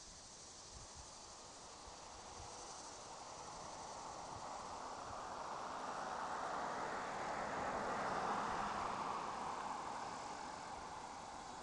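A vehicle passing on a nearby road, its tyre and engine noise swelling to a peak about eight seconds in and then fading, over crickets chirping steadily.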